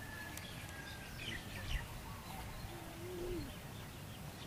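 Birds calling: a few short high chirps a little over a second in, and a low, wavering gliding call near three seconds, over a steady low background rumble.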